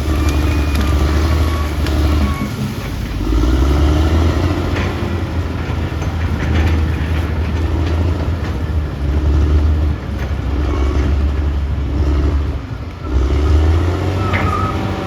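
Caterpillar D6R XL bulldozer's diesel engine working under varying load, its low engine note swelling and easing every few seconds.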